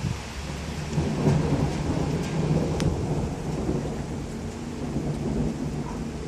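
Thunder rumbling over steady rain, swelling about a second in and slowly dying away.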